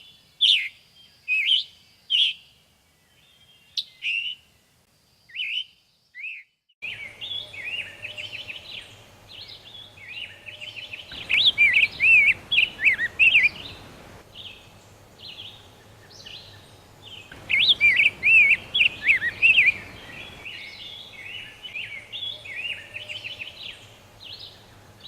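Songbirds singing: a string of short, separate chirps for the first several seconds, then a busier chorus of calls over which one bird twice sings a loud, rapid warbling phrase a couple of seconds long.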